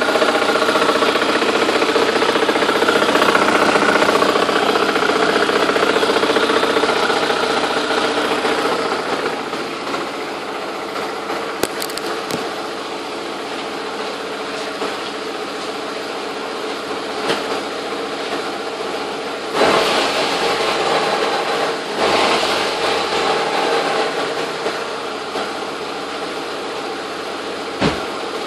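Audi AWM 1.8-litre turbo four-cylinder engine idling with a clicking noise that began after a timing belt and accessory replacement. The engine is louder for the first several seconds, then settles to a slightly lower idle, with a few separate knocks later.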